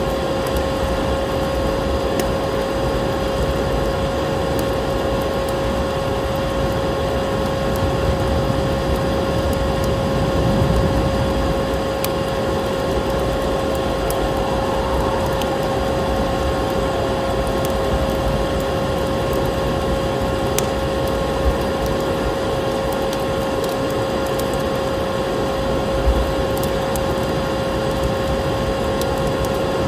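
Vacuum cleaner running steadily, its motor giving a constant hum over a rushing noise, with a few faint clicks.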